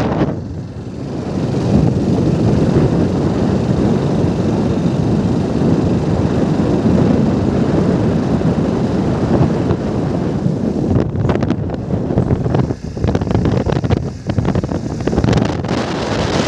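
Wind buffeting the microphone during a bike ride, loud and continuous, with two brief dips near the end.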